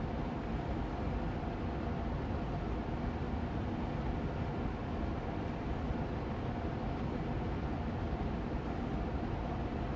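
Austin Air Allergy Machine air purifier fan running steadily on medium speed: an even rush of air with a gentle hum.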